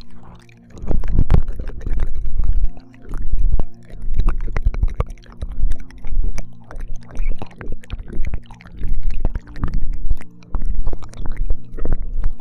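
ASMR ear-licking mouth sounds close to a binaural microphone: wet smacks and clicks coming in bursts about once a second. A soft, steady, humming tone runs beneath them.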